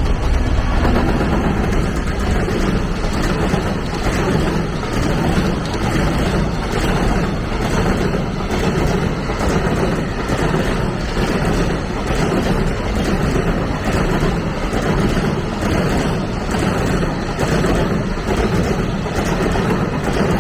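Train passing close by: a steady rumble of wheels on rails, with a regular beat in the rumble about once a second, that fades slightly toward the end.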